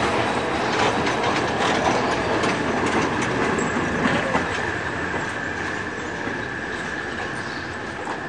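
Train rolling over a trestle viaduct: wheels clacking over rail joints with a steady high wheel squeal, the sound slowly fading as the train moves away.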